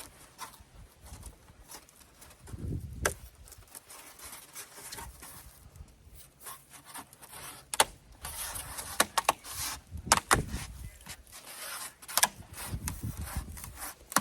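Hands-on work fitting foam board insulation: scattered sharp clicks and taps, bouts of rustling, and a few low thuds, with clusters of quick clicks about two-thirds of the way through and near the end.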